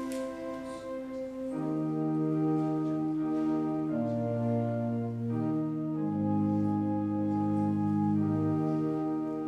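Organ playing slow, held chords that change every second or two, with deeper bass notes coming in about one and a half seconds in.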